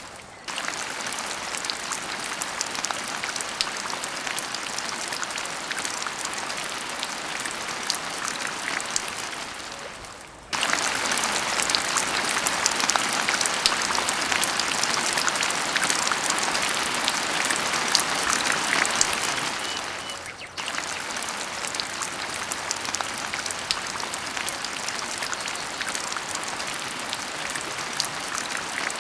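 Dense, steady patter and hiss like rain falling on a surface. It is broken by two short dropouts about ten and twenty seconds in, and the middle stretch is louder.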